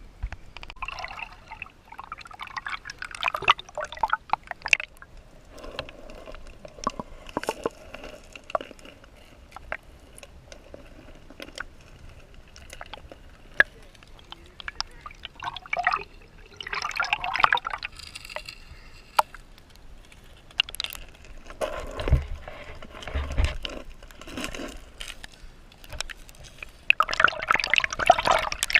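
Water splashing and dripping in bursts every few seconds, as a canoe paddle dips into and lifts out of river water, with scattered sharp clicks among the splashes.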